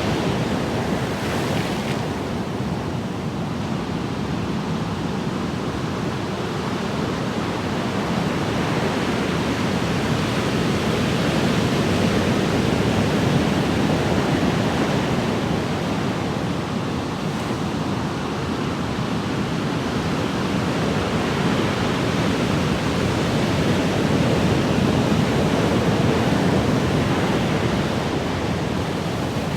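Ocean surf: a steady wash of breaking waves that slowly swells and eases, with no single distinct crash.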